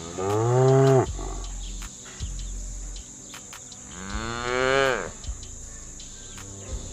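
Domestic cow mooing twice: two calls of about a second each, roughly three seconds apart, each rising and then falling in pitch, the second pitched higher.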